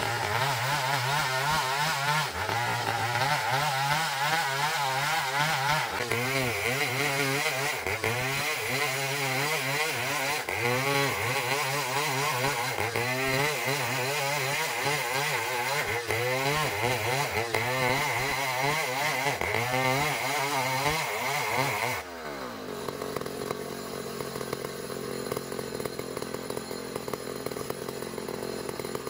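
Sawmill engine running under load while a blade cuts through hard ironwood, its pitch dipping and recovering over and over as the saw bites. About 22 seconds in the pitch sinks and the sound drops to a quieter hum.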